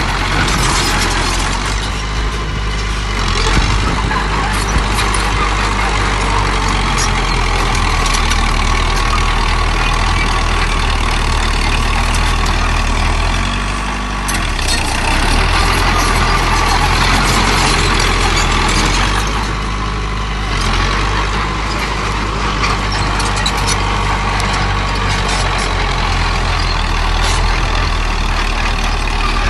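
Diesel earthmoving machinery running steadily while soil is pushed and dumped, a low engine hum with scattered clanks and knocks. The noise swells for a few seconds about halfway through.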